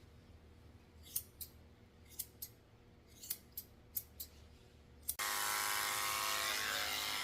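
Grooming scissors snipping a toy poodle's hair around her eyes: about eight quiet snips, mostly in quick pairs. About five seconds in, a steady hum starts.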